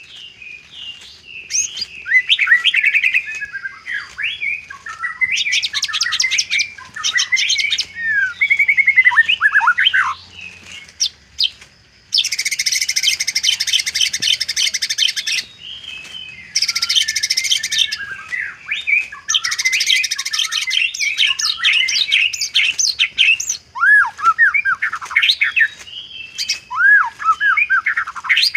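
White-rumped shama (murai batu) singing a long, varied song: rising and falling whistled phrases alternating with bursts of very fast, buzzy trills, the mimicry-filled 'isian' repertoire used to lure other shamas.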